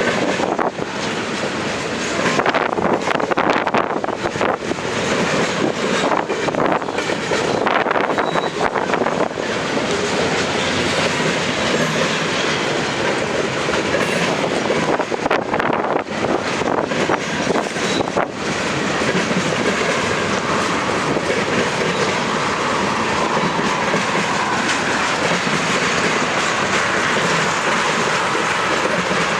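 Freight cars of a manifest train rolling past, their wheels clacking over the track with a steady rolling noise. The clacks are frequent through the first two-thirds or so, after which the sound settles into a smoother steady roll.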